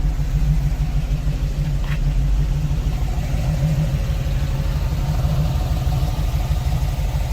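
GM ZZ4 350 cubic-inch V8 crate engine with aluminium heads and fuel injection, idling steadily with an even, low-pitched running sound.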